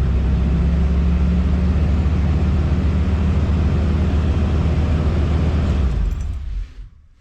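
1986 Mercury Cougar's 3.8-litre V6 running steadily at idle, then shut off about six seconds in, the sound dying away within a second.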